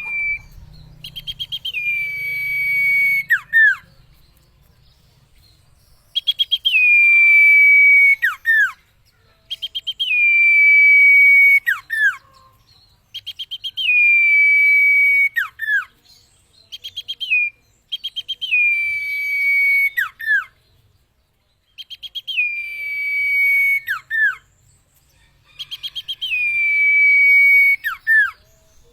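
Common iora (cipeuw) singing its whistled song phrase over and over, about eight times. Each phrase is a quick stuttering run of notes, then a long, steady whistle that sinks slightly, ending in one or two sharp downward swoops.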